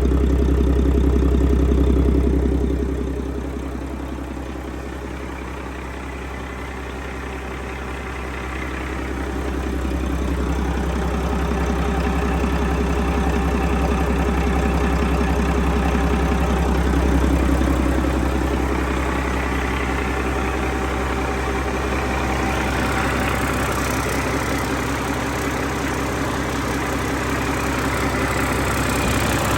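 A Mack MP7 10.8-litre six-cylinder diesel engine running on a test run. Its sound drops a few seconds in, builds again around ten seconds in, then holds steady.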